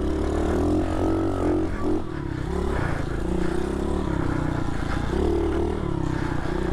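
SSR 110cc pit bike's four-stroke single-cylinder engine running while being ridden, its revs rising and easing off a couple of times.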